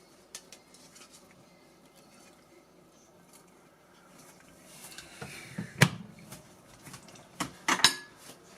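Quiet kitchen room tone, then several short knocks and clatters of utensils and dishes being handled, with one sharp knock standing out just before halfway through the second half.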